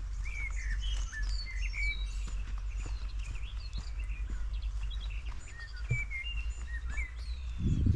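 Several small songbirds chirping in quick, overlapping short calls, over a steady low rumble. A dull low thump comes near the end.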